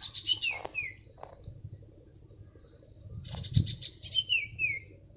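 A bird calls twice, each call a short dense high burst followed by two or three quick falling whistled notes. Under it run a faint steady high whine and soft low thuds.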